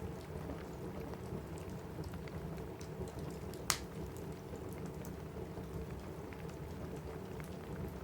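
Steady rain on a roof mixed with a crackling wood fire: faint scattered crackles, and one sharp, loud pop about halfway through.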